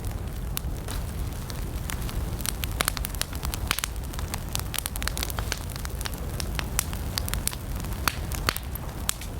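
Wood campfire burning: a steady low rumble of the flames with sharp, irregular crackles and pops from the burning wood, several a second.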